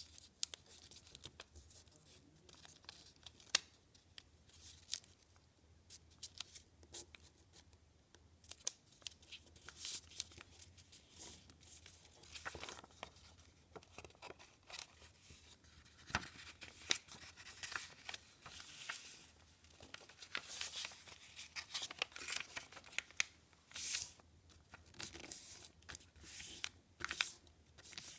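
A sheet of paper being handled, folded and creased: irregular crisp rustles and scattered sharp clicks, coming and going throughout.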